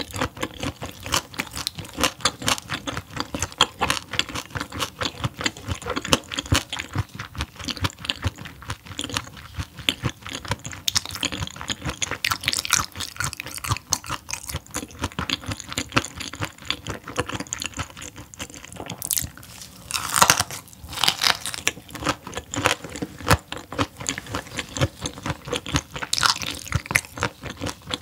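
Close-miked crunchy chewing and biting of raw whole gizzard shad, its small bones crunching between the teeth, in a steady run of irregular crunches. There is a louder stretch about two-thirds of the way through.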